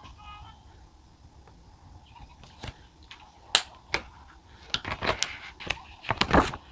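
Irregular sharp clicks and taps of stationery being handled on a desk, with a short paper rustle near the end.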